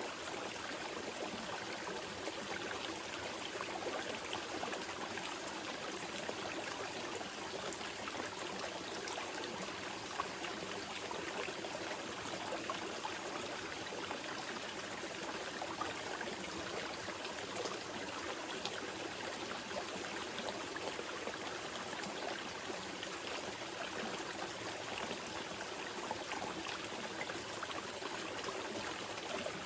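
Small mountain river flowing steadily over rocks, a continuous rush of water with light trickling and splashing.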